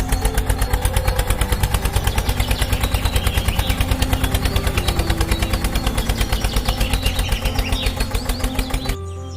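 Engine chugging in rapid, even thumps, about seven a second, over background music; the chugging cuts off abruptly near the end.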